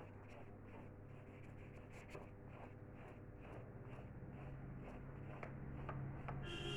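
Colouring strokes on paper: a colouring tool rubbing quickly back and forth in short, faint scratches, over a steady low hum.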